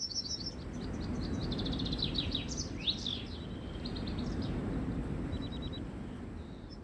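Songbirds chirping and trilling in quick runs, with a few fast rising-and-falling sweeps about two to three seconds in, over a steady low background rumble.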